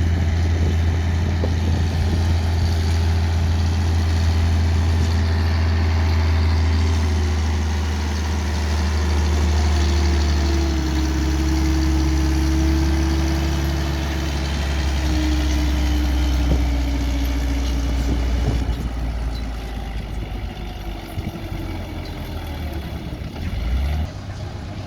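Tractor engine running at a steady, heavy speed with a deep hum. It eases off and gets quieter over the last several seconds.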